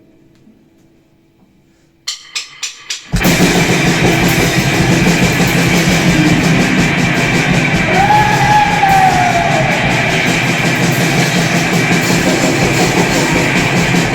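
Grindcore duo of distorted electric guitar and drum kit: after about two seconds of low hiss comes a quick count-in of four clicks, and the full band crashes in about three seconds in, playing a loud, dense, noisy blast. About halfway through, one pitched wail slides up and falls away over the din.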